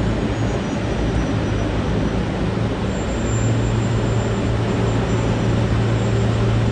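Liebherr T 264 mining dump truck on the move, giving a steady drone with a low hum that grows stronger about three seconds in.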